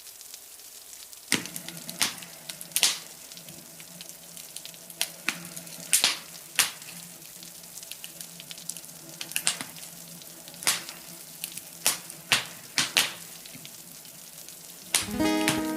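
Campfire crackling, with scattered sharp pops over a steady hiss of rain. Near the end an acoustic guitar comes in with a strummed chord.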